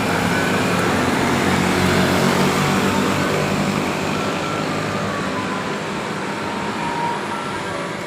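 Garbage truck's engine running close by, loudest about two seconds in and then slowly fading, with faint snatches of its broadcast tune.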